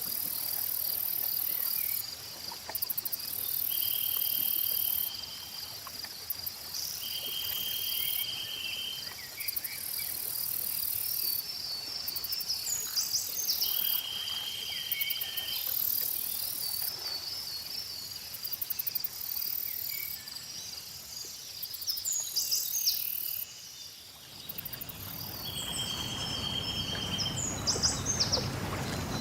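Layered lake-edge nature ambience: a high insect chorus that switches on and off over a steady trill, birds chirping with quick rising notes, and a short buzzy trill repeating every few seconds. Near the end a low rush of lake water lapping comes in.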